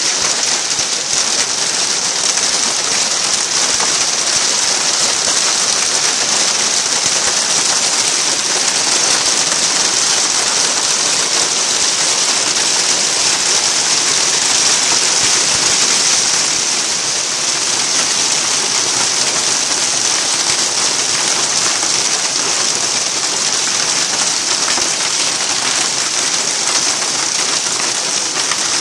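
Heavy thunderstorm downpour: a loud, dense, steady hiss of rain, easing slightly a little past halfway.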